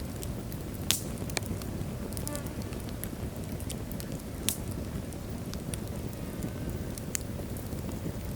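Wood logs burning in a fireplace: a steady low rush of flames with sharp crackles and pops scattered through it, the loudest pop about a second in and another near the middle.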